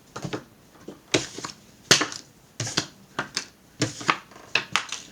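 Playing cards being thrown: a dozen or so short, sharp snaps and taps at uneven spacing, the loudest about two seconds in.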